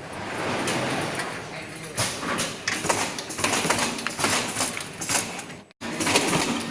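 Irregular knocks, clatter and scraping from a screen-printing machine being worked, with a sudden brief break just before the end.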